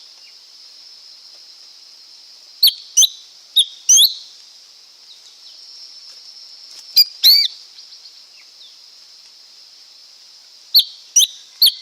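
Lesser green leafbird calling: short, sharp sweeping high notes in clusters of two to four, coming about every four seconds. A steady high-pitched hiss runs underneath.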